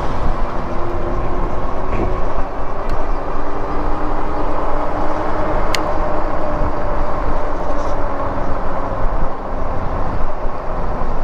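Wind buffeting the microphone of an e-bike in motion, a steady heavy rush, with a faint hum that drifts a little in pitch through the first part and a single sharp click near the middle.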